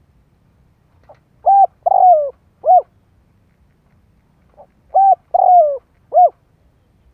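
Spotted dove cooing as a decoy call to lure wild doves. Two phrases about three and a half seconds apart, each a soft lead-in note followed by three loud coos, the middle coo longer and falling in pitch.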